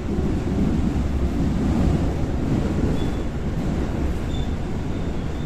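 Seoul Line 4 4000-series electric multiple unit with Daewoo–Alstom GTO VVVF traction running between stations: a steady, heavy rumble of wheels on rail, with a few faint, brief high tones about three and four seconds in.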